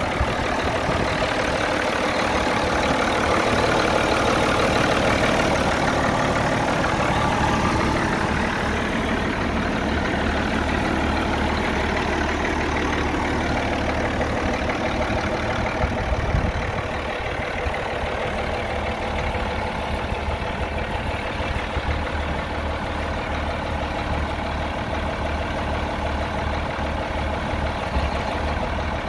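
Allis-Chalmers 7060 tractor's six-cylinder diesel engine running steadily, a little louder for the first several seconds, with a single short thump about halfway through.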